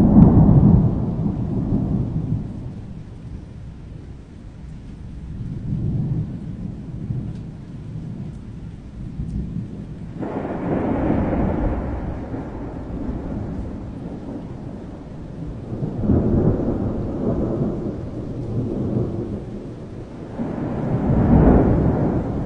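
Thunderstorm: rolling thunder rumbling over steady rain. The loudest rumble comes right at the start; another breaks in suddenly about ten seconds in, and two more rolls swell up near the end.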